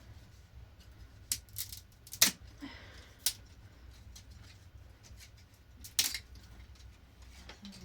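Kitchen utensils and dishes handled by hand: a few separate sharp clicks and knocks, the loudest about two seconds in and another about six seconds in, over a low steady hum.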